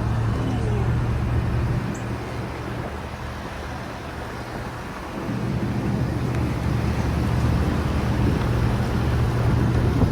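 A car engine running while driving, with road noise. It eases off about two seconds in and picks up again around five seconds.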